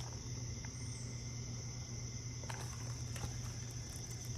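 Steady background noise: a constant high-pitched tone and a low hum, with a few faint clicks.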